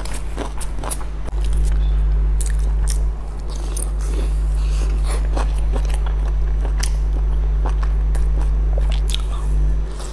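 Close-up eating sounds: biting into and chewing a large steamed dumpling, with many short mouth clicks and smacks scattered through, over a steady low hum.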